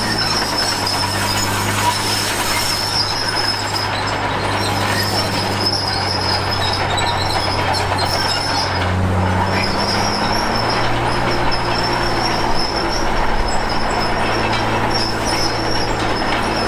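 Komatsu D53P crawler bulldozer working: its diesel engine runs steadily under a continuous high-pitched squeal and clatter from the steel tracks. The engine note shifts about nine to ten seconds in.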